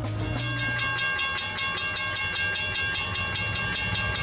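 Snowplow train running, with a rapid, even beat of about five pulses a second under steady high tones.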